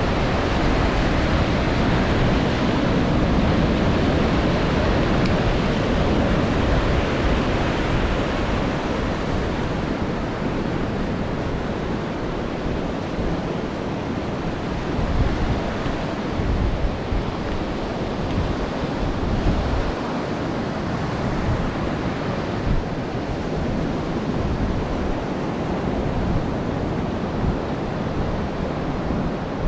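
Ocean surf washing continuously onto a beach, a little louder in the first several seconds, with wind buffeting the microphone.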